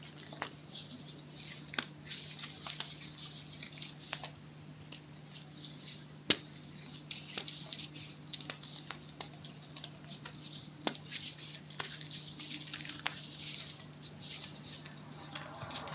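Crisp, irregular crunching and crackling of chalk, made of many small sharp snaps with a few louder cracks, over a faint steady hum.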